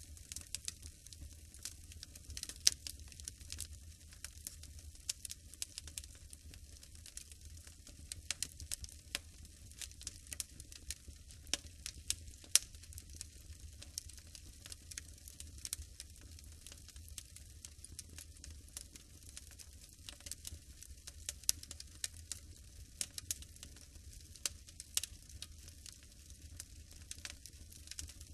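Log fire crackling in a fireplace: irregular sharp pops and snaps over a low steady rumble.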